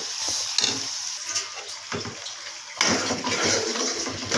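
Chicken pieces frying in oil in an aluminium karahi, sizzling as wet masala paste is stirred in with a metal spoon, with a few light scrapes of the spoon on the pan. The sizzle gets louder about three seconds in.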